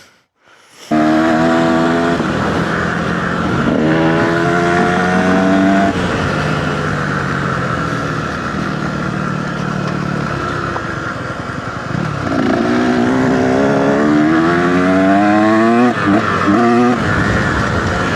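Dirt bike engine accelerating through the gears, rising in pitch as it revs and dropping back at each shift, starting about a second in.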